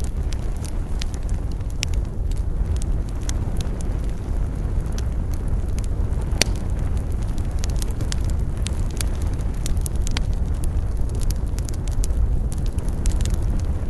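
Campfire burning: wood crackling with frequent sharp pops over a steady low rushing of flames.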